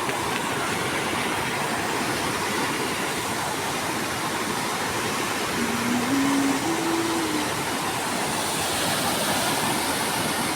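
Steady rushing of a flood-swollen river in spate. About six seconds in, a short low tone steps up in pitch three times.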